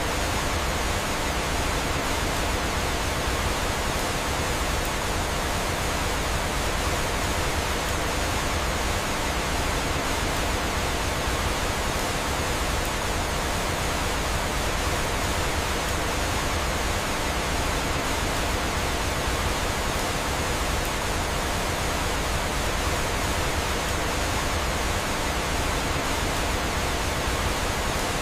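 Steady rush of falling and flowing water, like a waterfall: an even, constant hiss with no breaks or changes.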